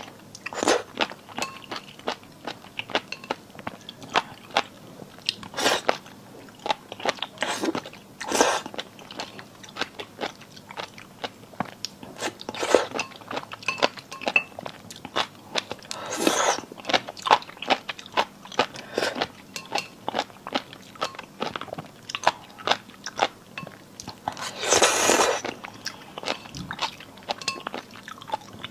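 Close-miked eating of cold marinated seafood: steady wet chewing and crunching, with a few louder mouthfuls or slurps, the longest near the end.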